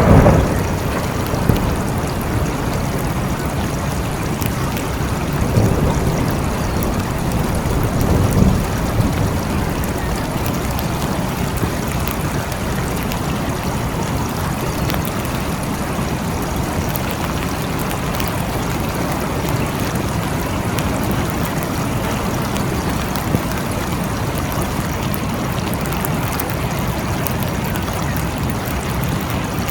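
Steady rain falling, with low rumbles of thunder right at the start and again about six and eight seconds in.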